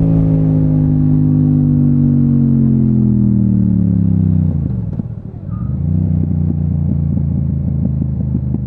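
Yamaha MT-07 parallel-twin engine, with an Akrapovič exhaust, decelerating: its note falls steadily in pitch for about four and a half seconds. It dips briefly, then settles into a steady, lumpy low-rpm beat.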